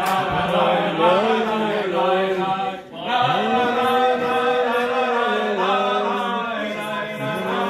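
Voices singing a slow, chant-like melody over a steady held low note, with a short break about three seconds in.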